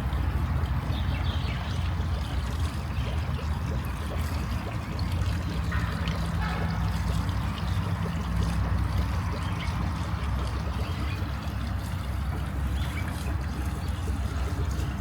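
Water trickling, over a steady low rumble.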